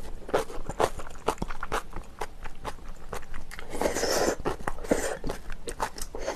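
A person chewing and crunching food close to the microphone, with repeated crisp crunches and wet mouth sounds. A brief louder rustling hiss about four seconds in.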